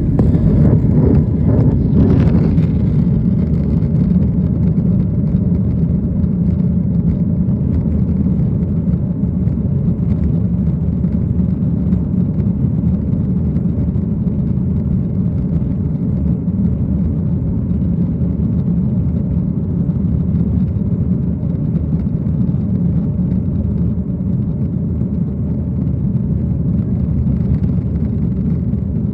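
Aeroplane noise: a steady low rumble, a little louder and hissier for the first few seconds.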